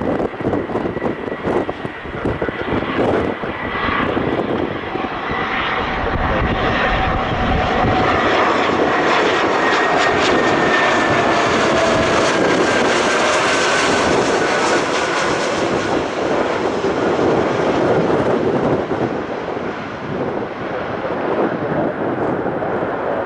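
Jet aircraft engines passing close by: a loud, broad engine noise that swells, holds for several seconds and then eases. Across it runs a whine that slowly falls in pitch as the aircraft goes by.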